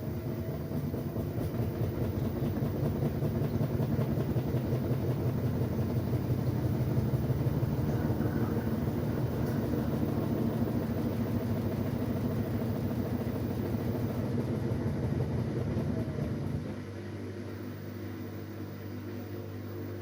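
LG Direct Drive 8.5 kg washing machine running, a steady motor hum with the drum turning. A faint rising whine comes in the first few seconds as it grows louder, and it drops to a quieter running level about three-quarters of the way through.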